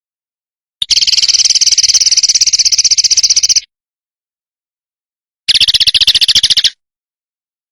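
A songbird's harsh, rapid rattling call, the chattering 'besetan' used in masteran training recordings: a long rattle of about three seconds starting about a second in, then a shorter one of about a second later on.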